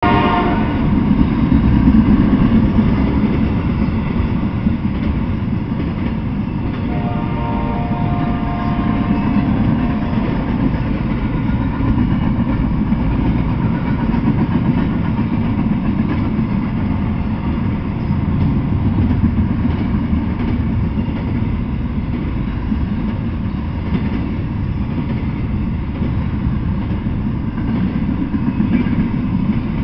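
Double-stack intermodal container freight train rolling past: a steady, loud rumble of the cars on the rails. Faint steady tones sound over the rumble near the start and again about seven to ten seconds in.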